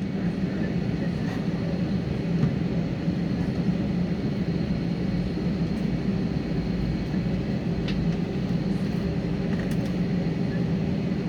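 Airliner's engines and airflow running steadily, heard from inside the passenger cabin as a constant low hum with a faint steady whine above it.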